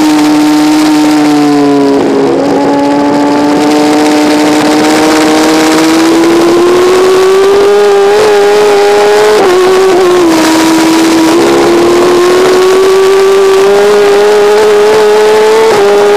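Kawasaki racing motorcycle engine running hard on track, heard from the bike itself with constant wind rush. The engine note sags, breaks about two seconds in, then climbs steadily. It drops briefly a little past the middle and rises again toward the end.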